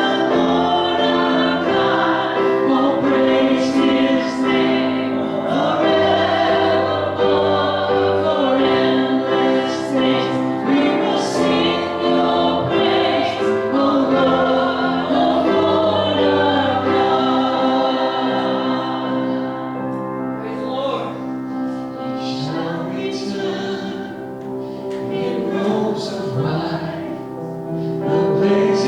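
A choir sings a hymn or gospel song with instrumental accompaniment, in long held notes.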